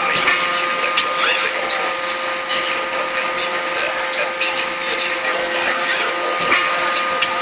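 Steady drone of forging-shop machinery, a constant hum with a few held tones, with a few light clicks and knocks.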